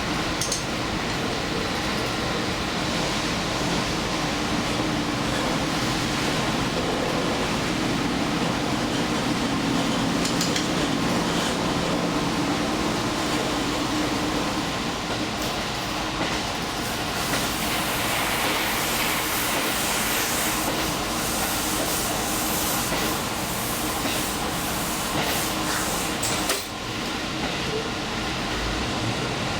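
Diesel limited express train running along the line, heard from inside at the front: a steady running noise with occasional faint clicks from the rails. A short sharp knock comes about 26 seconds in.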